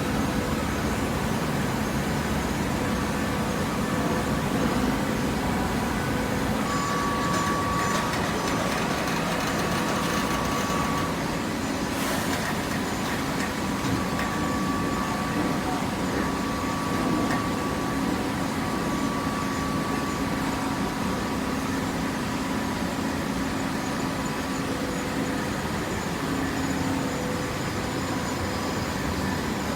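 Hydraulic waste-paper baler running: a steady machine hum with a faint whine that fades in and out.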